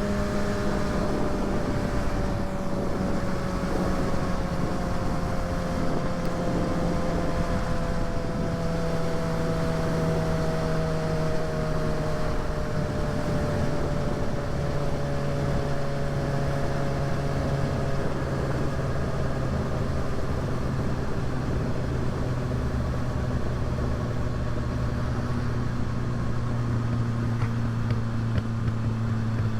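Kawasaki ZX-6R sportbike's inline-four engine running at cruise under steady wind noise, its pitch sinking slowly over about twenty seconds as the bike eases off, then holding steady.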